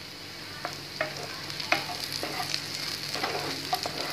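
Sliced onion, whole coriander and cumin seeds and garlic cloves sizzling in hot oil in a frying pan with a steady hiss, while a spatula stirring them scrapes and knocks against the pan several times.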